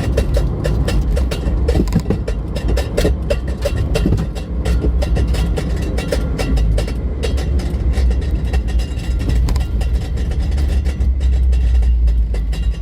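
A vehicle on the move: a steady low rumble with dense, irregular rattling and clattering.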